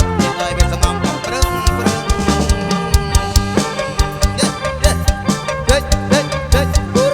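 Live kantrum music from a band over a steady, fast drum-kit beat, with pitched melody lines and short sliding notes near the end.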